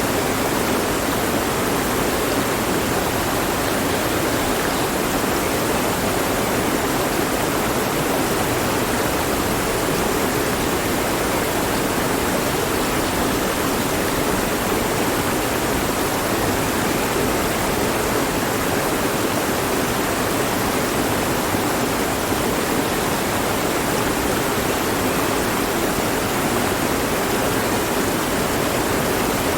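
Mountain stream flowing over rocks, a steady, even rush of water with no breaks.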